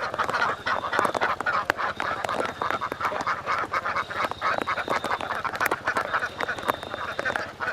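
A large flock of domestic ducks quacking and chattering all at once in a dense, continuous din. A thin high whine comes and goes every couple of seconds above the flock.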